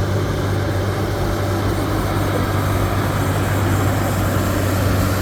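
Heavy diesel engine running steadily, a constant low drone that grows slightly louder near the end.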